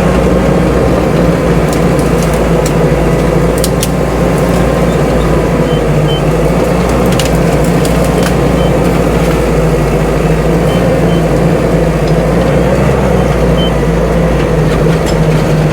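CAT D5 bulldozer's diesel engine running steadily under load, with a few sharp cracks of wood and branches snapping as the blade pushes a felled tree through brush.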